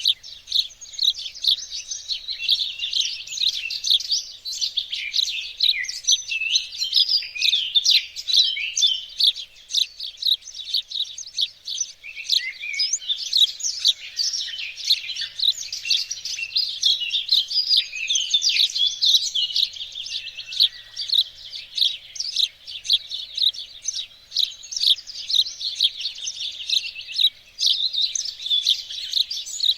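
Songbirds singing and chirping together in a dense, unbroken chorus of quick high chirps and short trills.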